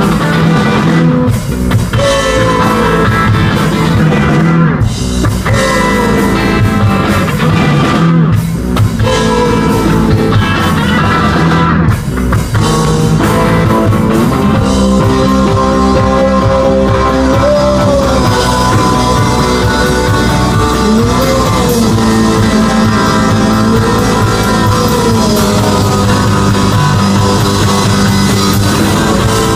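Rock band playing, with electric guitar and drum kit. In the first half the music stops short about every three and a half seconds; after that the band plays straight through.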